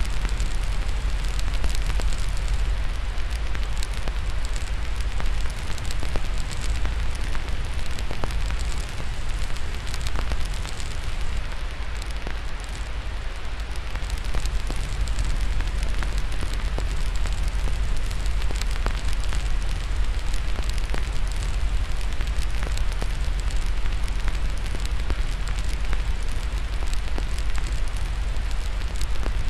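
Fireplace fire crackling, with frequent small pops and snaps over a steady hiss of white noise and a deep, even low rumble.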